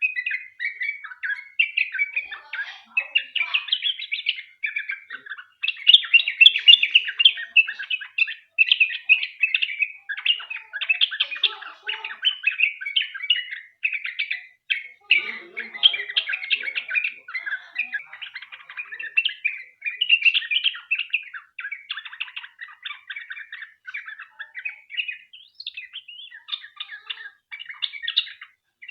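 Yellow-vented bulbul (trucukan) singing in a long, fast, chattering run of bubbly notes with only brief breaks.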